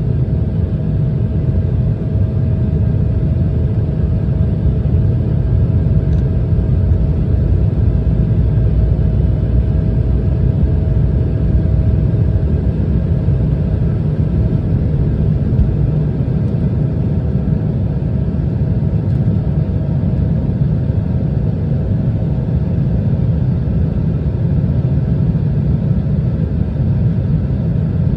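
Embraer ERJ-175 airliner heard from the passenger cabin: the jet engines and airflow make a steady low rumble with a faint steady whine above it.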